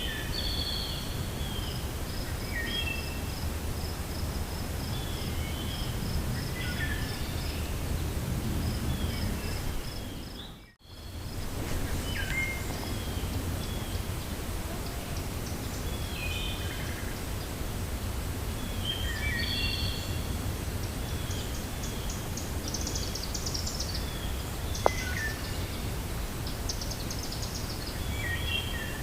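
Wind blowing steadily through a forest, with many small birds chirping and calling over it and a rapid string of high notes in the first several seconds. The sound fades out and back briefly about eleven seconds in, and there is a single sharp click near the end.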